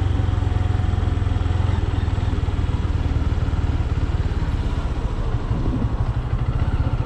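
Motorcycle engine running under the rider at low road speed: a steady, low, pulsing exhaust note.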